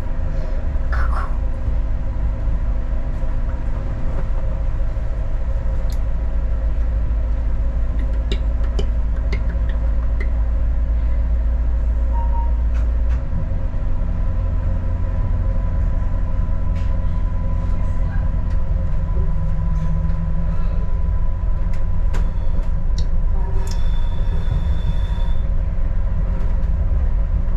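Adelaide Metro diesel railcar running, heard from inside the carriage: a steady low engine drone with a hum, its low note changing about halfway through. A brief high-pitched tone sounds near the end.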